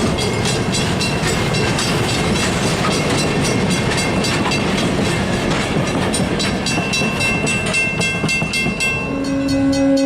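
A train running with a steady rumble and a rapid, even clatter. About nine seconds in, the locomotive starts to sound its signal, a loud held chord of several tones.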